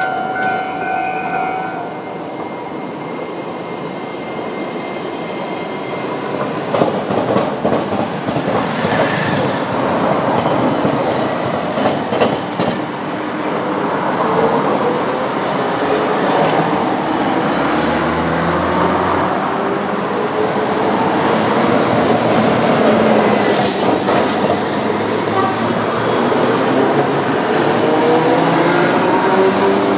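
A level-crossing warning bell, heard as two steady tones, stops about two seconds in. Then an Iyo Railway electric rail vehicle runs through the railway–tramway crossing, with scattered clicks of wheels over the rails and a whine that rises and falls, amid passing road traffic.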